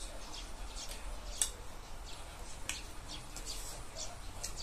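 Close-up mouth sounds of eating fried chicken: irregular short, wet chewing and lip-smacking clicks, one sharper than the rest about a second and a half in, over a faint low hum.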